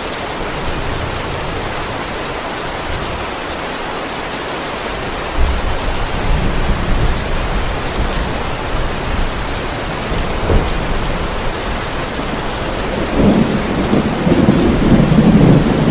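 Heavy rain falling steadily on a roof. Thunder rumbles low from about five seconds in, and a louder rumble of thunder comes near the end.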